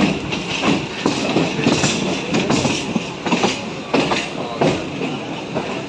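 Electric multiple-unit suburban train running, heard from on board through the open doorway: wheels knocking irregularly over rail joints and pointwork over a steady hiss of running noise.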